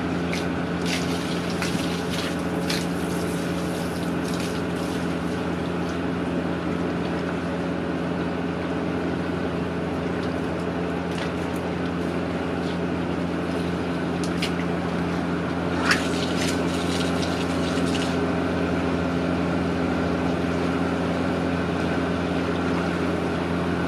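A steady motor hum over rushing water, with a few sharp knocks near the start and a short cluster of them about two-thirds of the way through.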